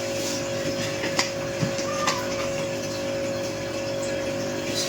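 A few light clicks and taps from a baby milk bottle being handled while it is made up, over a steady hum.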